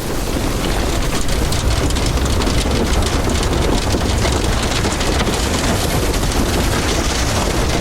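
Heavy tornado rain and wind. A loud, steady rush of noise, thick with the fast patter of drops.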